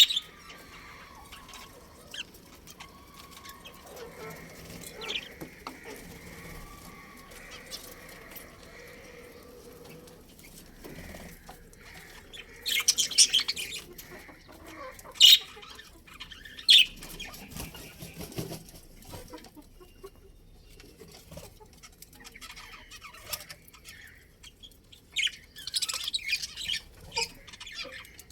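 Budgerigars chirping in short, sharp, high-pitched bursts: a cluster near the middle and a flurry near the end, with quieter stretches between.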